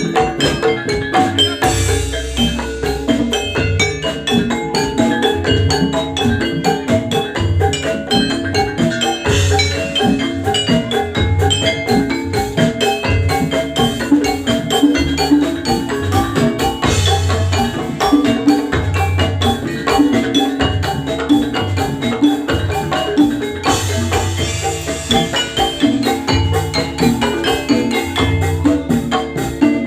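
Instrumental Javanese gamelan music for jathilan, played through a sound system with no singing: bronze metallophones strike quick, dense rhythmic notes over a recurring low drum beat.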